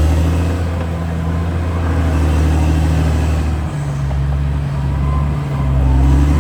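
CAT D6R XL bulldozer's diesel engine running, its pitch dropping slightly about halfway through and rising again near the end.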